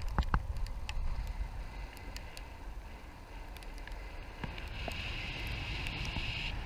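Wind rushing over the microphone in flight, with scattered sharp ticks of raindrops striking it. A brighter, higher hiss comes in for the last couple of seconds.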